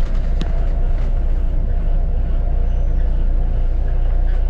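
Double-decker bus running, a steady low engine and road rumble heard from on board, with a single sharp click about half a second in.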